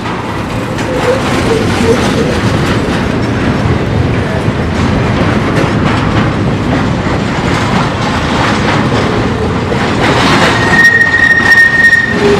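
Double-stack intermodal freight train rolling past, its steel wheels rumbling and clattering over the rails. Near the end a wheel gives a high, steady squeal for about a second.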